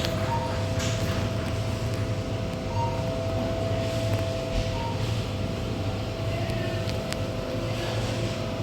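Steady low machine hum with two steady higher tones over it, and a few short faint beeps.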